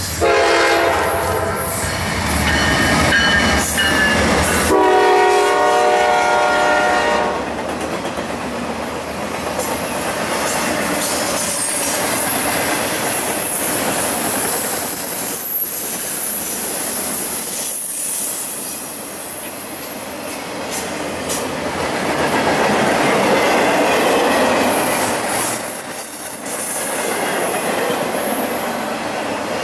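A freight train's horn sounds two blasts, a long one and then a shorter one, as three GE Dash 9-40CW diesel locomotives pass with a heavy rumble. The intermodal cars carrying highway trailers then roll by with steady wheel noise and rhythmic rail clatter.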